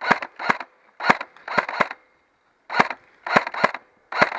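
Airsoft gun firing single shots: about nine sharp cracks in irregular pairs and clusters, each with a brief tail.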